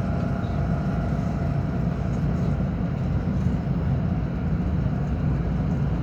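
Rapid passenger train running between stations, heard from inside the car: a steady low rumble of wheels on rail.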